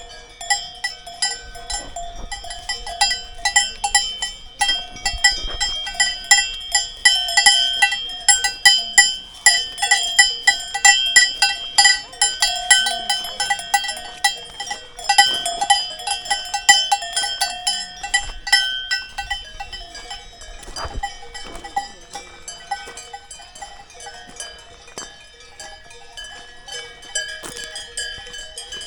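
Cowbells on grazing cows clanging irregularly, several bells ringing at once and overlapping, busiest through the first two thirds and thinning out near the end.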